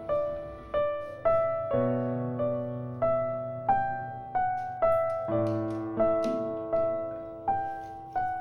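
Background piano music: a slow, gentle melody of single notes and soft chords, struck about every half second and left to ring.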